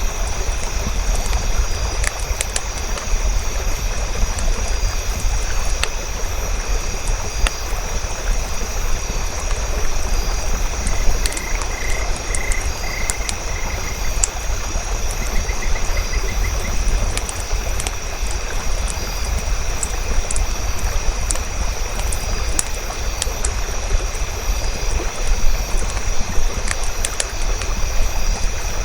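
Campfire crackling, with scattered sharp pops over a steady low rumble and hiss. About halfway through comes a brief run of rapid chirping calls.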